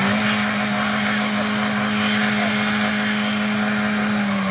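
Car engine held at high, steady revs while a front wheel spins in place in a rut, with the hiss of the spinning, smoking tyre; the revs start to drop right at the end.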